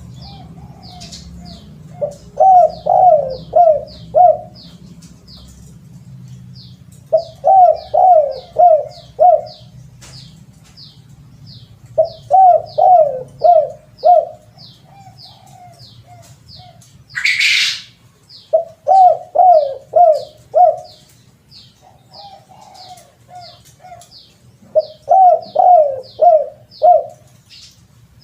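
Spotted dove (terkukur) cooing in repeated phrases of four or five falling coos, a phrase about every five seconds. A faint high chirp repeats about twice a second throughout, and a brief loud rasping burst comes about seventeen seconds in.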